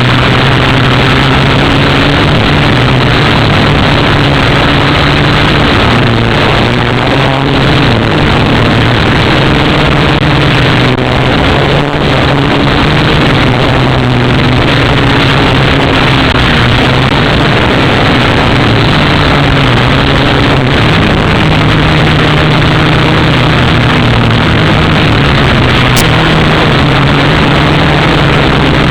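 Syma X8W quadcopter's four motors and propellers whirring loudly and steadily, the pitch drifting slightly up and down as the throttle changes.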